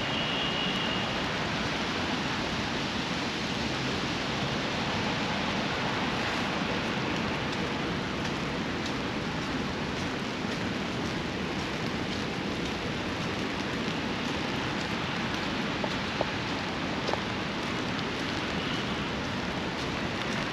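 Steady rain falling, an even hiss with a few brief ticks of drops.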